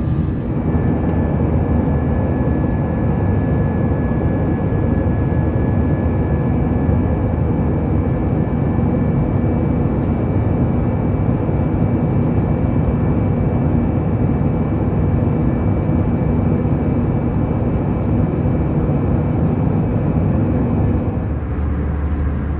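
Steady in-flight cabin noise of an Airbus A320 at cruise: a loud, even roar of engines and airflow, with a faint high whine over it that drops away near the end.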